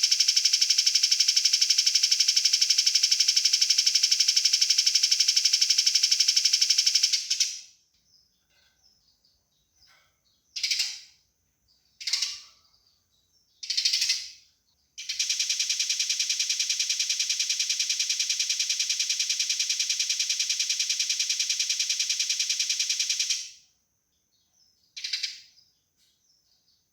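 Eurasian tree sparrows' fighting chatter: a long, very rapid, high churring rattle for about seven seconds, then a few short chirps, then a second long rapid rattle of about eight seconds, with one more chirp near the end.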